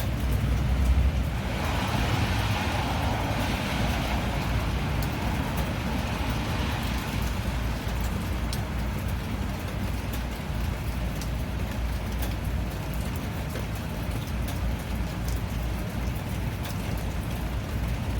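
Steady rain, with scattered drops ticking over a low rumble. A louder wash of hiss swells up about two seconds in and fades away again by about seven seconds.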